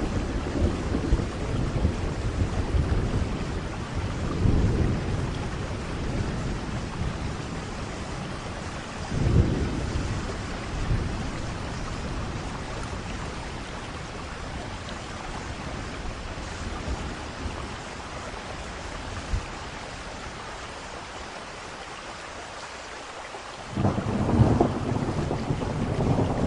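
Thunderstorm: steady rain with thunder rumbling in the first few seconds, a sharp thunderclap about nine seconds in, and a loud burst of thunder near the end.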